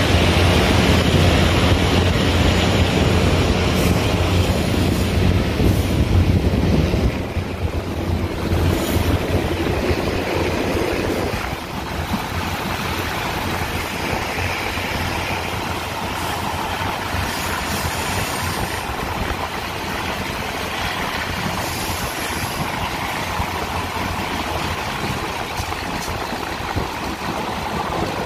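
Passenger train pulling out of a station, heard from an open carriage window: a steady low engine drone for the first several seconds, then an even rushing of wheels on rail and wind.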